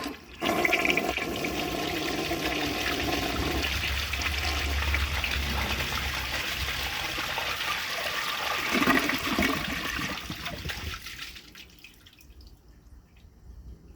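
1969 American Standard Cadet elongated toilet flushing: a sharp click at the start, then about ten seconds of rushing water that fades to a faint trickle near the end.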